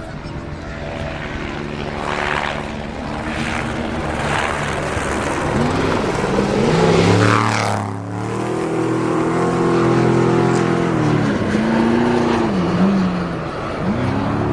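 Off-road race vehicle engines at speed. One passes close about seven seconds in, its pitch dropping sharply as it goes by, and the engine note then rises and falls in repeated revs toward the end.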